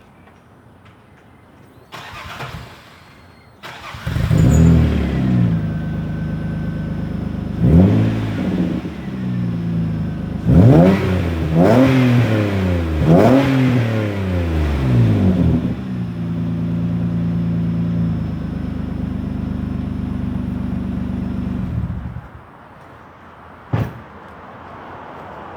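2001 Nissan Maxima's 3.0-litre V6 running through a 2.5-inch full-stainless cat-back exhaust: it starts about four seconds in, is revved in a series of quick blips that rise and fall back, runs steadily for several seconds, then shuts off abruptly about 22 seconds in.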